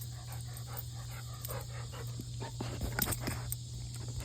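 Excited puppy panting in quick short breaths with a little whimpering, and a few sharp clicks about three seconds in.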